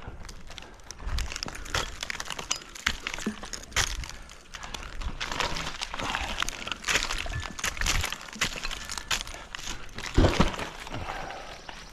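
Irregular cracking, knocking and crackling of bark and small wood close to the microphone, with the loudest knock about ten seconds in; no saw running.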